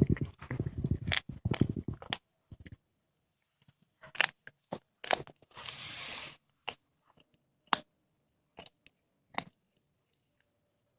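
A cat chewing and crunching through a squirrel carcass: a quick run of crunching bites for about the first two seconds, then single sharp crunches roughly once a second, with a brief rasping noise near the middle.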